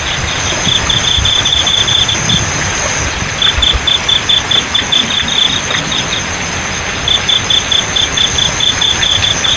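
Crickets chirping in three trains of evenly pulsed chirps, about five a second, pausing in between, over a steady high insect trill and the even rush of flowing water.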